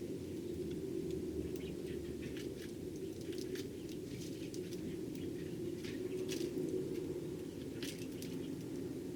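Eurasian tree sparrows making scattered short chirps and clicks, many in quick succession, over a steady low background hum.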